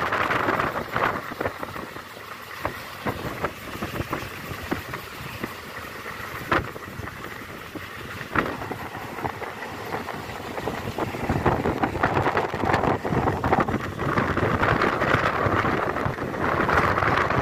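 Passenger train running at speed, heard from an open coach doorway: a steady rattle with many small clicks and a couple of sharper knocks, and wind buffeting the microphone. It grows louder about two-thirds of the way through.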